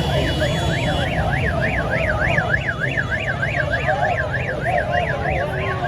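A fast-warbling siren sweeping up and down about four times a second, over a steady low engine rumble from street traffic and motorbikes.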